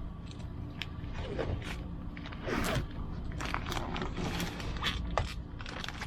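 Protective plastic film being peeled off a new acrylic hatch pane: irregular crackling and clicking with short ripping sweeps, loudest about two and a half seconds in.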